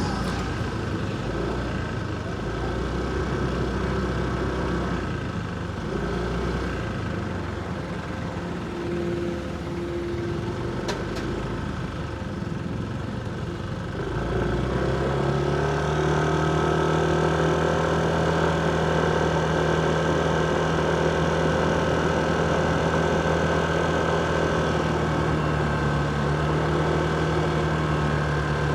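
Motorcycle engine running in city street traffic. About halfway through, a louder engine hum sets in and holds at one steady pitch.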